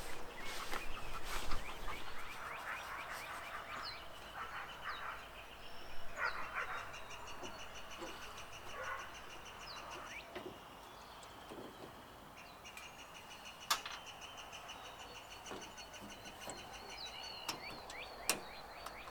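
Outdoor ambience with no machinery running: birds chirping and calling, over long, fast-pulsing high trills, and a few sharp clicks.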